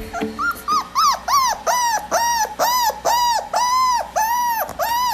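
A Belgian Malinois giving a long run of high-pitched yelping cries, about three a second, each rising and then falling in pitch.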